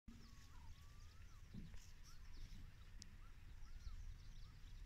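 Faint bird calls, a run of short whistles bending up and down in pitch and some higher chirps, over a steady low rumble.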